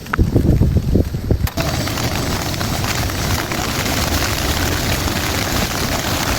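A loud, low rolling rumble of thunder for about the first second and a half, then an abrupt cut to the steady hiss of heavy rain.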